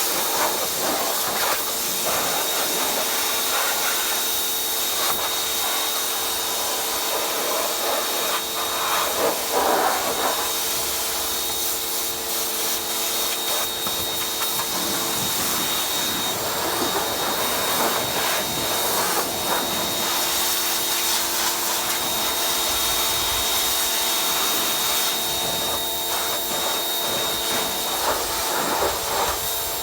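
Pressure washer running steadily, its water jet hissing as it blasts mud off a dirt bike, over a constant motor whine.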